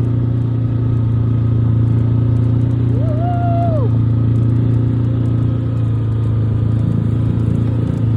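A motor vehicle's engine running with a steady low drone. About three seconds in there is one short, high voice call over it.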